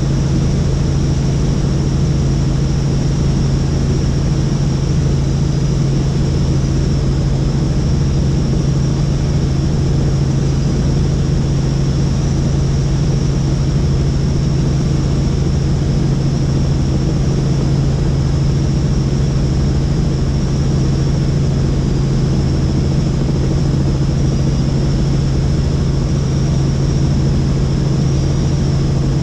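Helicopter in steady flight: a constant low drone with a steady high whine above it.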